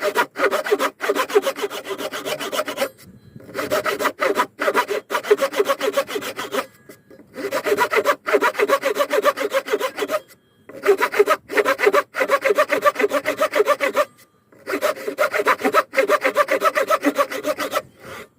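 Hand saw cutting through wood in fast, steady strokes, in several runs broken by brief pauses.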